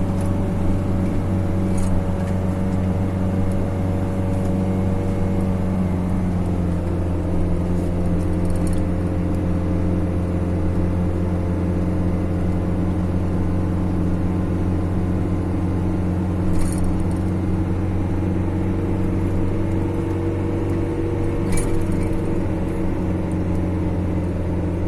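Steady engine drone of a moving road vehicle, its note shifting slightly about six seconds in, with a few faint clicks.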